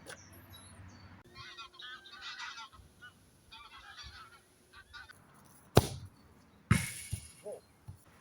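Two quiet wavering animal calls, one after the other, then two sharp knocks later on, which are the loudest sounds.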